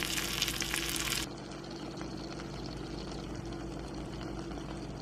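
Water hissing loudly for just over a second and cutting off suddenly, followed by a steady low hum.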